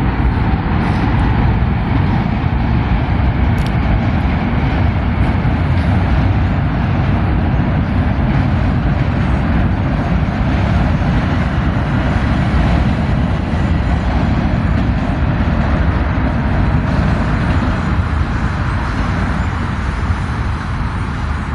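Metro-North M7A electric commuter train running across a steel vertical-lift bridge: a steady, loud rumble and rush of noise that eases slightly near the end.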